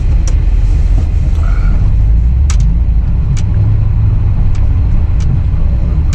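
Truck driving over a rough trail, heard from inside the cab: a steady low engine and road rumble, with several sharp clicks and knocks from the bouncing vehicle.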